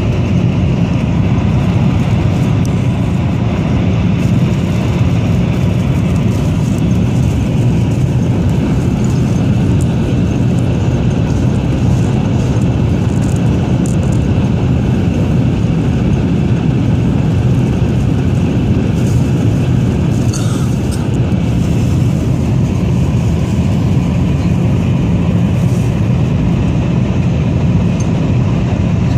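Steady cabin noise inside a Taiwan High Speed Rail 700T bullet train running at speed: an even low rumble of the train in motion.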